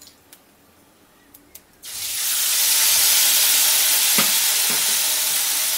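Wet spice paste of ginger, cumin, coriander and turmeric dropped into hot mustard oil in a kadai: a loud sizzle starts suddenly about two seconds in and goes on steadily as the water in the paste hits the hot oil, with a couple of light knocks near the end.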